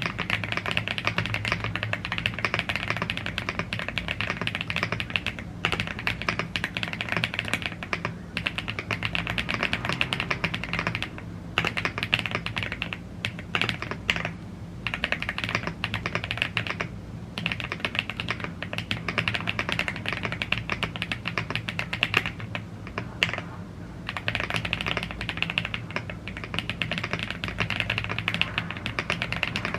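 Fast, continuous typing on a YUNZII AL75 gasket-mounted aluminium mechanical keyboard with Blue Grey tactile switches and double-shot PBT Cherry-profile keycaps, the key clicks broken by short pauses every few seconds.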